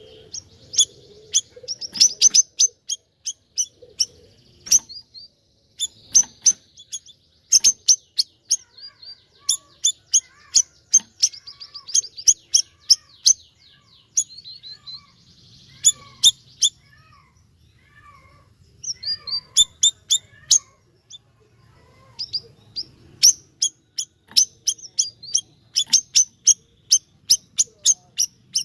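Siri-siri (bayeman) songbird singing vigorously: runs of sharp, high, rapidly repeated notes with short breaks, and fainter lower twittering in between.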